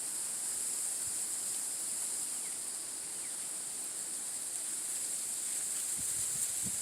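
Steady high-pitched insect chorus, an even shrill hiss, with a few faint low knocks near the end.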